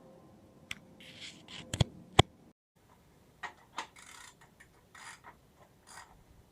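Irregular clicks, knocks and short scrapes of hand tools and small metal parts being handled while a small two-horsepower outboard motor is taken apart. Two sharp metallic clicks a little before the middle are the loudest, and the sound cuts out abruptly for a moment just after them.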